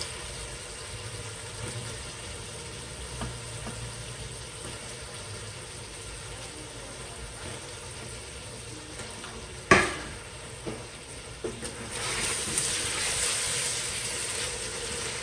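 Tomato-onion masala with potatoes sizzling in a cooking pot as chicken koftas are dropped in. About ten seconds in there is one sharp clack, and near the end a spoon stirs the koftas through the masala and the sizzling grows louder.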